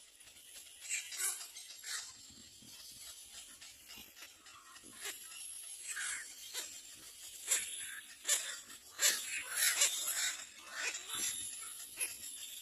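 Young birds in a nest calling with a run of short, high-pitched squeaks that come irregularly, growing busier and louder in the second half.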